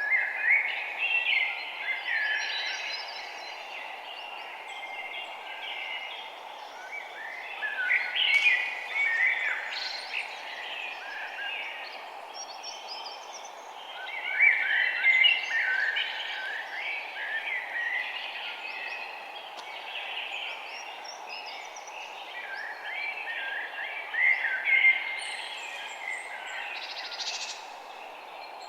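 Songbirds chirping and trilling in several bursts of overlapping calls, with a steady low hiss underneath throughout.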